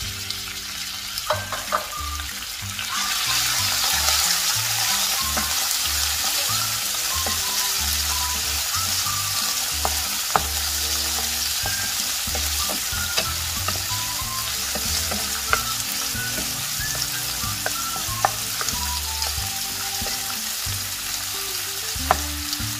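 Sliced pork belly sizzling in hot oil with minced garlic in a frying pan, stirred with a wooden spatula that clicks against the pan now and then. The sizzle grows louder about three seconds in.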